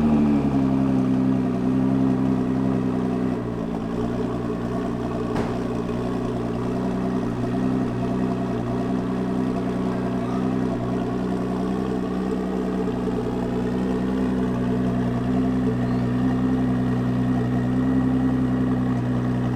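Ford GT supercar engine idling steadily.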